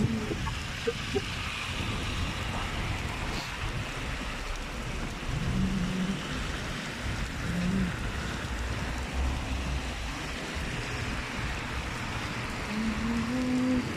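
Steady heavy rain hissing on surfaces, with a few short low tones mixed in, one around the middle and one starting near the end.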